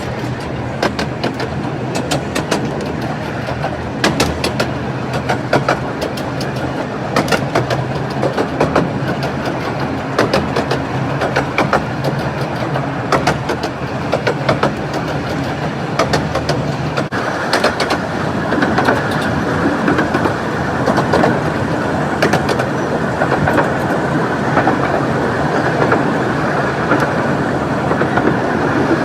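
Romney, Hythe and Dymchurch Railway miniature train running, a steady rumble of wheels on track with many sharp clicks over the rail joints. It grows slightly louder a little past halfway.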